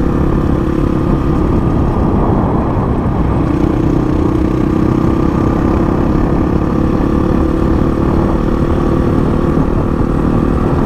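2008 Honda CRF450 supermoto's 450cc single-cylinder engine running under way at a steady cruise, heard from on the bike with rushing wind.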